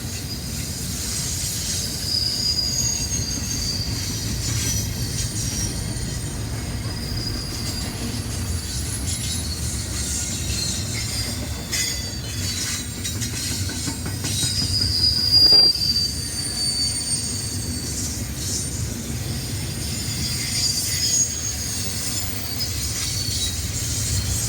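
Train rolling past, its steel wheels squealing against the rails in shifting high tones over a steady low rumble. The squeal is loudest briefly about fifteen seconds in.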